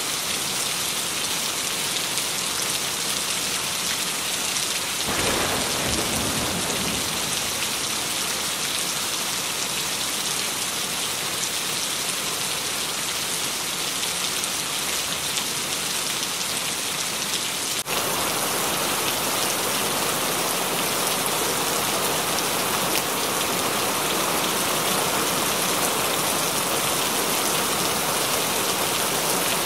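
Steady rain, with a low rumble of thunder about five seconds in lasting a couple of seconds. About two-thirds of the way through the rain sound changes abruptly, like a cut to another rain recording.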